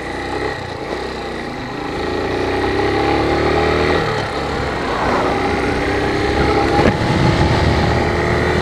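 Suzuki TU250X motorcycle's single-cylinder engine pulling under way, its pitch climbing, then dropping at a gear change about four seconds in before pulling on steadily, over the rush of riding wind.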